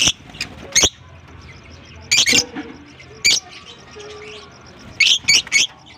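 Lovebirds giving loud, short, high chirps in little clusters: a few at the start, a pair about two seconds in, one a little after three seconds and a quick run of three near the end. Softer rapid high twittering goes on underneath.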